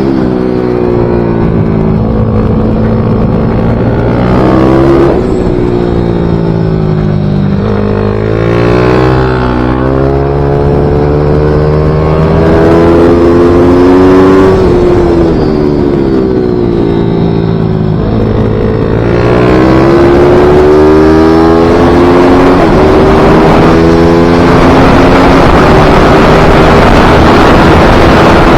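Mini GP pit bike engine at racing revs on a circuit lap, its pitch climbing and dropping again and again as it accelerates, shifts and slows for corners. A rising hiss of wind over the microphone builds up in the last few seconds.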